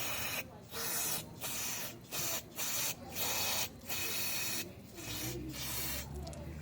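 Aerosol cleaner sprayed in a quick run of short bursts, about eight in a row, each roughly half a second, flushing out fuel injectors.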